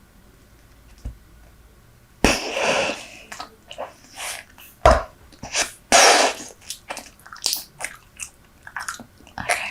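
Super Bubble bubble gum being chewed very close to the microphone: wet smacking and snapping mouth sounds that start about two seconds in, with a few loud sharp pops.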